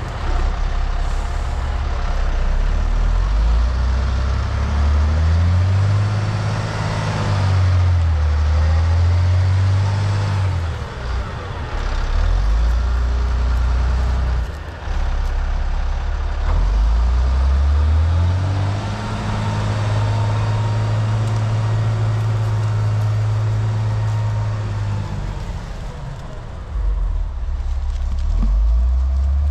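Diesel engine of a tracked off-road haul truck revving up and down repeatedly under load, its pitch climbing and falling several times as the machine works its way out of deep mud.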